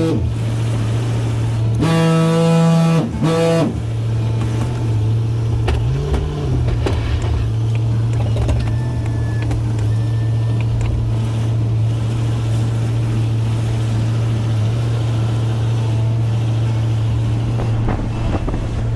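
Truck engine running with a steady low drone, rising slightly about six seconds in. A short burst of music plays about two seconds in.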